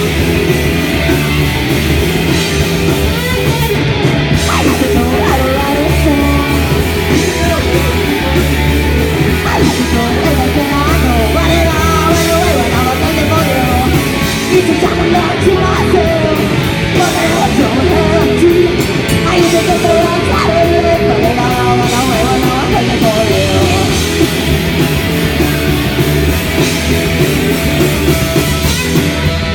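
Loud live rock band playing: distorted electric guitars, bass and drums, with a singer's voice over them.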